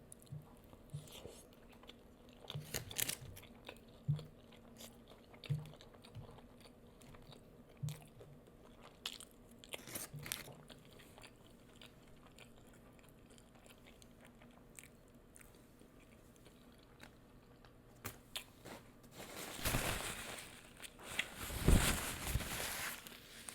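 Close-miked chewing of crispy fried food, with scattered crunches and mouth clicks, a quiet stretch in the middle, and a louder, denser spell of crunching about twenty seconds in.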